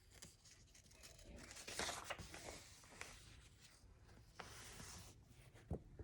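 Paper pages of a picture book being handled and turned: soft rustling swishes, the louder about two seconds in and another near five seconds, with a few light taps.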